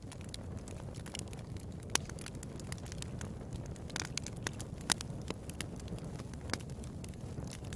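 Wood fire in a fireplace crackling, with irregular sharp pops over a steady low background noise; the loudest pops come about two and five seconds in.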